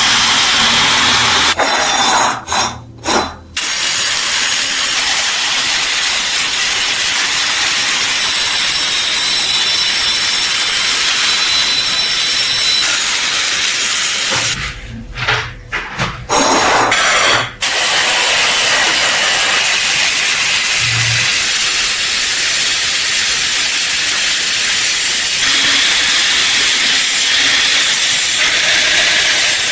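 Loud, steady hiss of compressed air at work in a rust-removal restoration, cutting off briefly twice: once about three seconds in and again for a few seconds about fifteen seconds in.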